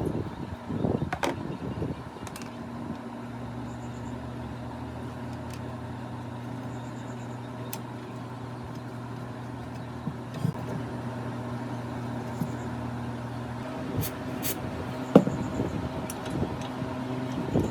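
A steady low motor hum that sets in a few seconds in and runs evenly, with a few sharp clicks and knocks near the end, the loudest about fifteen seconds in.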